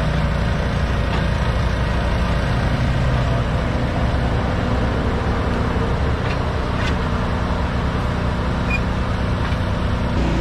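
Diesel engine of a mini excavator running steadily, with a couple of faint knocks about two-thirds of the way through.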